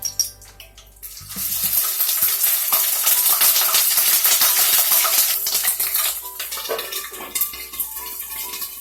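Hot oil sizzling and spattering as wet garlic and ginger paste goes into it, starting about a second in, loud for several seconds and then easing off.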